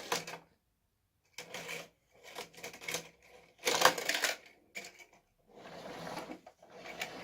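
Plastic toy track pieces and toy cars clattering and clicking in irregular bursts as they are handled and fitted together.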